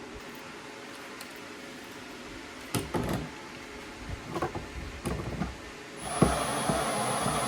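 A few knocks and some clattering as parts are handled, then about six seconds in a small power tool starts and runs steadily with a thin high whine.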